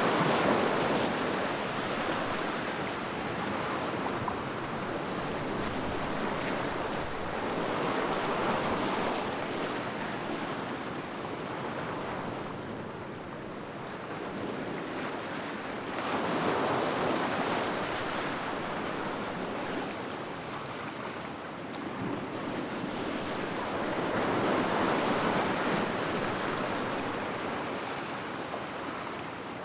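Sea waves breaking and washing on a shore, the surf swelling and easing in slow surges about every eight seconds, with some wind noise on the microphone.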